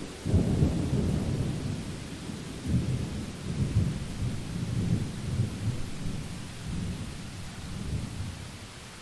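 Thunder rumbling during a rainstorm: a low roll starts just after the start, rises and falls in waves, and dies away near the end over steady rain hiss.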